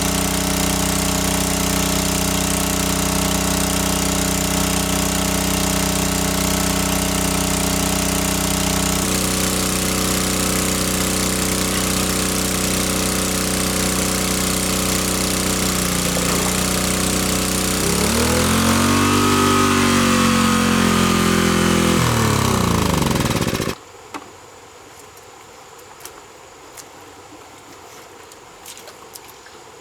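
Small motorboat engine running steadily, its pitch shifting after about nine seconds, then rising and falling in revs before cutting off abruptly near the end. After that only faint water trickling is left.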